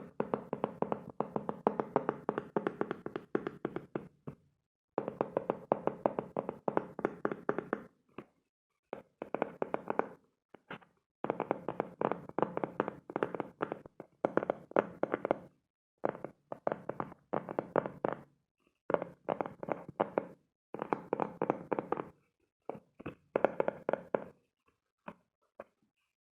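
Rapid tapping and knocking on an object, in runs of quick strokes a few seconds long broken by short silent pauses.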